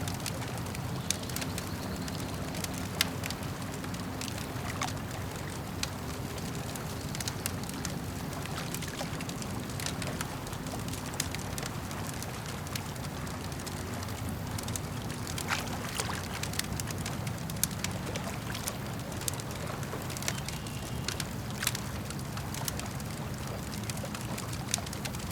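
Campfire crackling with frequent sharp pops, over a steady low wash of lake water lapping.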